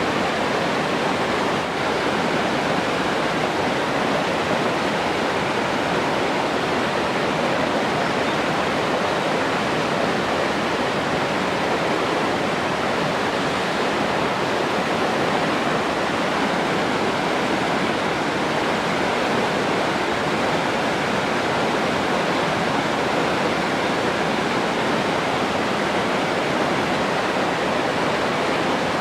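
Rushing water, a steady, unbroken noise without rhythm or pauses.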